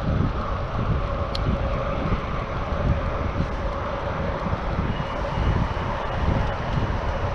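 Wind buffeting a GoPro Hero 7's microphone on a moving bicycle, a low fluctuating rumble with a faint steady hum under it. There is a single sharp click a little over a second in.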